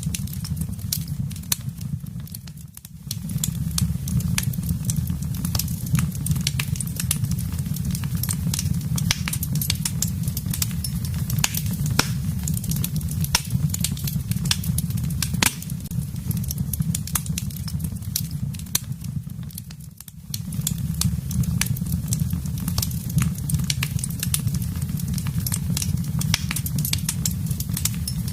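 Wood fire crackling in a fireplace: a steady low rumble of flames with many sharp pops and snaps from the burning wood. The sound dips briefly twice, about three seconds in and again near twenty seconds.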